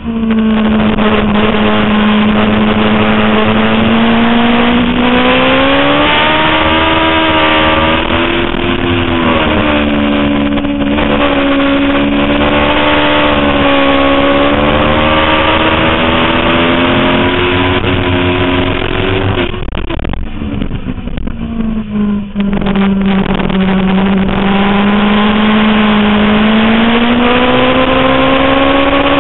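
Suzuki GSX-R 750 inline-four sport-bike engine running hard at high revs, its pitch rising and falling with throttle and gear changes, over a dense rush of noise. About twenty seconds in, the engine drops off briefly as the throttle closes for a corner, then its pitch climbs steadily again under acceleration.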